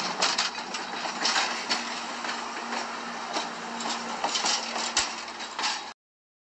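Passenger coaches rolling past at close range: a steady rush of steel wheels on rail with scattered sharp clicks from the wheels and rail joints. The sound cuts off abruptly near the end.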